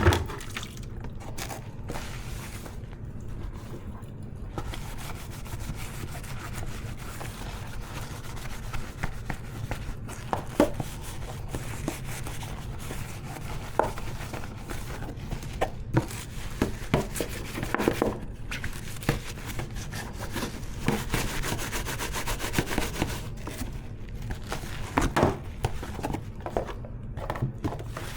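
Dishes being washed by hand at a sink: scattered knocks and clinks of dishware, with rubbing, scraping and a little water, over a steady low hum.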